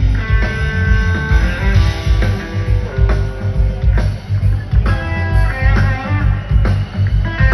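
Live rock band playing an instrumental jam: an electric guitar lead holds long sustained and bending notes over bass guitar and a steady drum beat.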